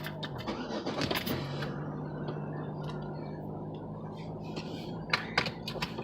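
Car running at road speed, heard from inside the cabin: a steady engine hum over road noise, its pitch dipping briefly about a second in before settling again, with a few sharp clicks near the end.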